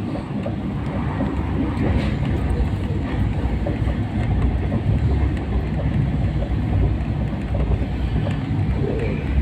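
Moving train running with a steady low rumble.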